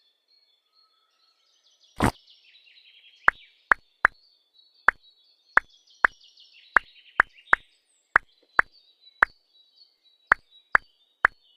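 A run of about fifteen sharp taps at uneven intervals, starting about two seconds in with a fuller knock, with faint chirping in the background.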